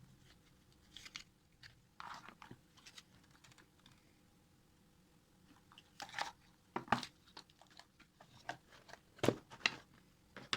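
Scattered light rustles, crinkles and clicks of objects being handled, sparse at first and busier in the second half.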